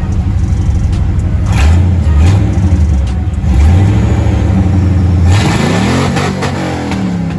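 Car engine revving in deep, repeated steps of pitch. About five seconds in, a louder car sweeps past close by.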